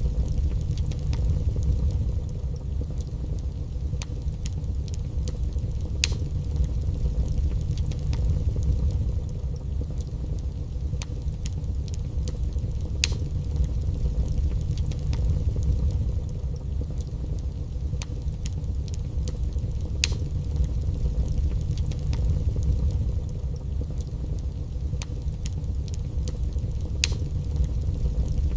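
Wood fire burning in a fireplace: a steady low roar with irregular sharp crackles and pops, a few each second.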